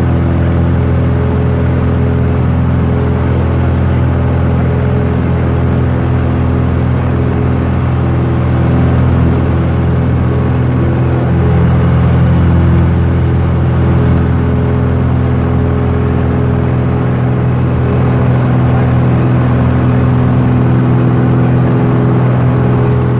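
Cessna 172's piston engine and propeller running steadily: a constant, even drone.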